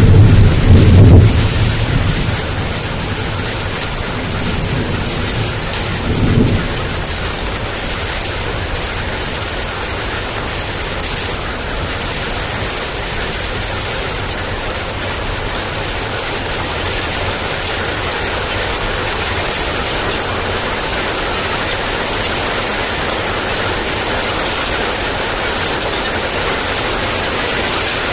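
Heavy rain pouring steadily, with a loud roll of thunder dying away over the first two seconds and a short, fainter rumble about six seconds in.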